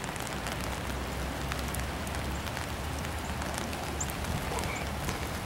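Steady rain falling, with many individual drops ticking close by. A low, steady rumble runs underneath.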